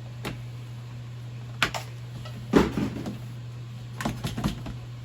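A few sharp knocks and clatters of kitchen things being handled, the loudest about halfway through and a quick cluster near the end, over a steady low hum.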